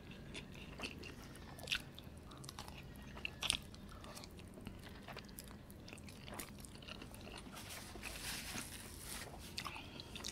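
Close-miked chewing of soft dumplings covered in melted cheese and spicy sauce: scattered wet mouth clicks, two louder ones in the first few seconds. A brief hiss comes about eight seconds in.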